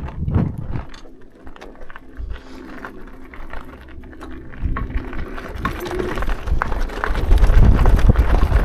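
Riding a fat-tyre electric mountain bike: uneven rumble of wind buffeting the microphone and the ride, swelling louder near the end, with scattered clicks and a faint steady hum in the middle.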